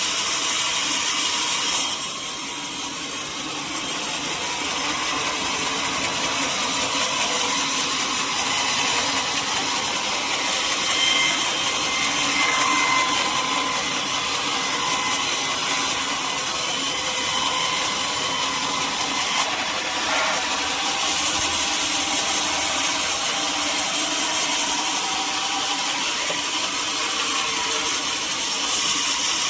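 Sawmill saw cutting teak wood: a steady, continuous, high-pitched sawing noise with a faint whine that wavers in pitch.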